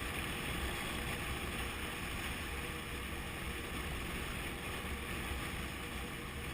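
Riding noise from a Honda CB500F at road speed: a steady rush of wind over a low, even drone.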